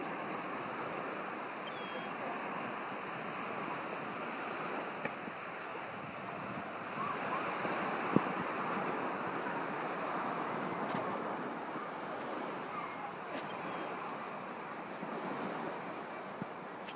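Surf washing on a beach, a steady rush that swells for a few seconds midway, with a sharp click about 8 seconds in.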